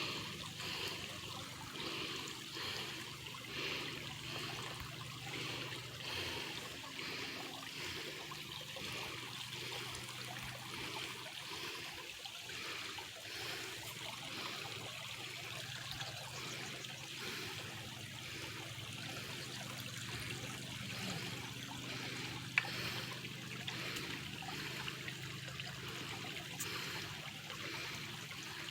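Small stream trickling and gurgling steadily, with a single sharp click near the three-quarter mark.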